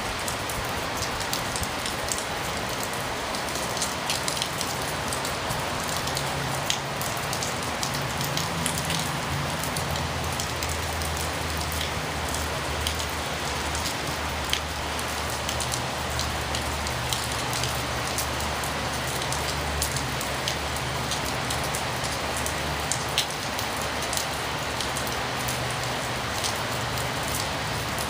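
Heavy rain falling steadily, with many distinct drop ticks, over a low, constant roar of freeway traffic from behind a sound wall.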